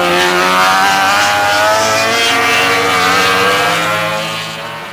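MotoGP racing motorcycle's 990cc four-stroke engine at high revs as the bike runs through a corner, its pitch rising and falling slightly, fading near the end.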